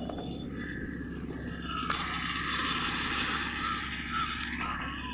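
Steady rumble of a train on the move, with a rushing hiss that swells about two seconds in and eases near the end.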